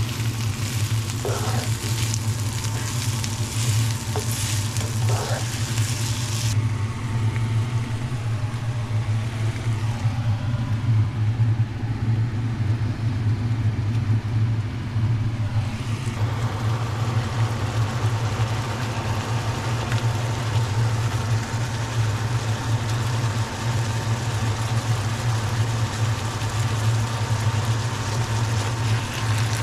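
Sliced onions sizzling in a nonstick frying pan, with two scrapes of a plastic slotted spatula. About 6 seconds in this gives way to a softer bubbling of a pot of potatoes at a rolling boil, and at about 16 seconds to a steady sizzle of minced meat frying with the onions. A steady low hum runs underneath.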